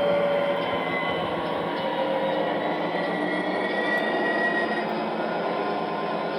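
MTH model of a Union Pacific SD60M diesel locomotive running on its track: a steady rumble of wheels and motors, with faint whining tones that waver in pitch.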